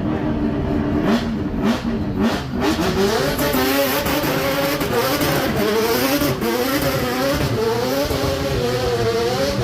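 High-performance car engine revving hard, with several sharp cracks in the first couple of seconds; the engine note then wavers up and down as the throttle is worked.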